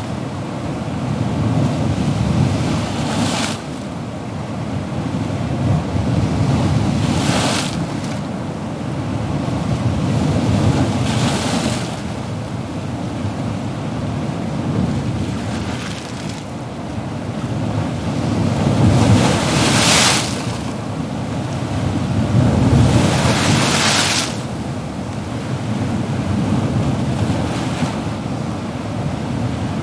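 Ocean surf: a steady low rumble with waves breaking and washing in every few seconds, five hissing surges in all, the loudest about two-thirds of the way through.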